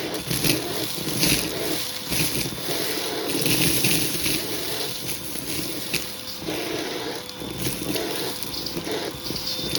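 Hoover vacuum cleaner running with a faint steady motor whine. Its hose tool sucks carpet-freshener powder out of a shag rug, the rush of air surging and easing every second or so as the tool works the pile.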